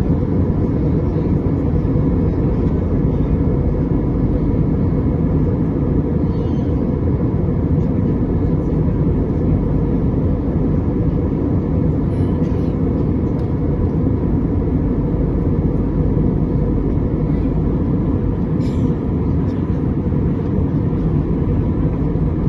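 Steady low rumble of a vehicle in motion, unchanging throughout, with a faint steady hum above it.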